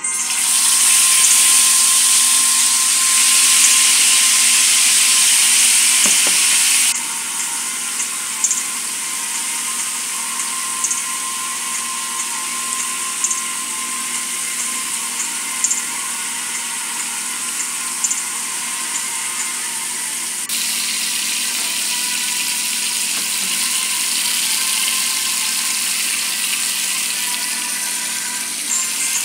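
Chicken pieces frying in hot oil in a steel pan: a steady sizzle with small pops, starting just as the chicken goes in. It drops abruptly quieter about seven seconds in.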